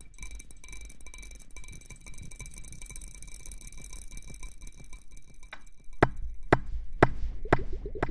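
A faint steady high ringing with soft ticking, then sharp, evenly spaced taps about twice a second from a little past the middle.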